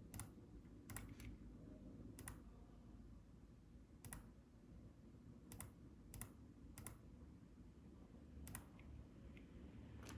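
Faint, scattered clicks at a computer, about ten in ten seconds and some in quick pairs, over a low steady hum.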